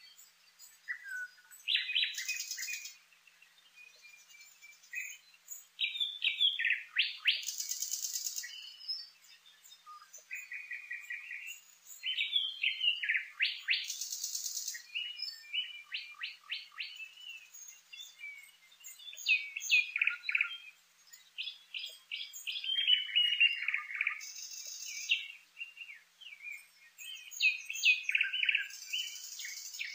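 Songbird singing: phrases of quick chirps, rattling trills and rapid note runs, each a second or two long, following one another every few seconds.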